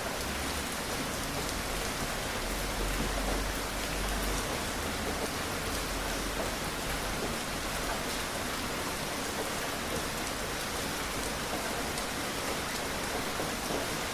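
Steady rain falling on a surface, with scattered drop ticks, and a faint low rumble for a couple of seconds near the start.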